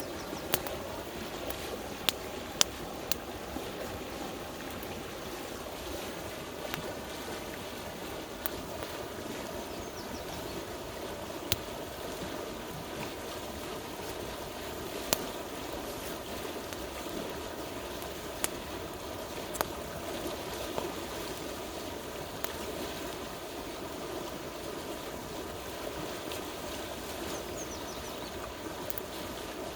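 River water rushing steadily, with scattered sharp pops and crackles from a wood campfire, about a dozen in all.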